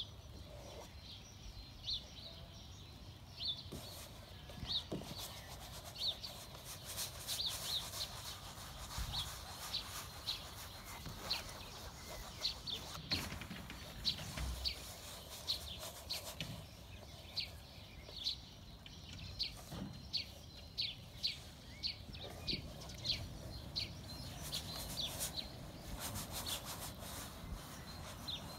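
A small bird calling with short, high chirps that drop in pitch, about one or two a second, on and off throughout.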